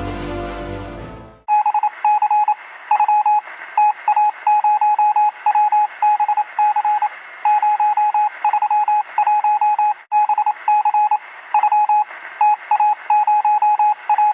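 Morse code: one steady beep tone keyed on and off in a run of short and long beeps over a faint radio-like hiss. A music track ends just before it, about a second and a half in.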